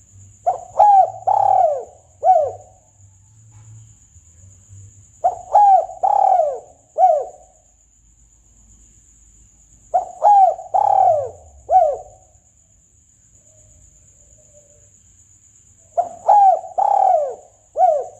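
Spotted dove cooing its song, used here as a hunting lure call: four phrases of three or four arching coos each, repeated about every five seconds.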